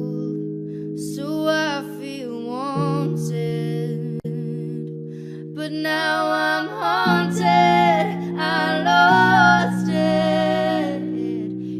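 Pop song music: held chords that change every few seconds, with a wordless singing voice over them from about a second in.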